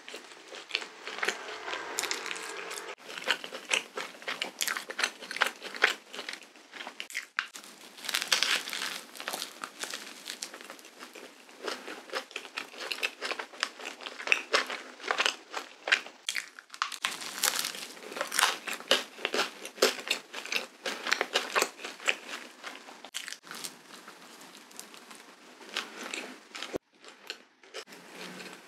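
Close-miked chewing of a cream-filled waffle, a dense run of small mouth clicks and crackles with a few short pauses.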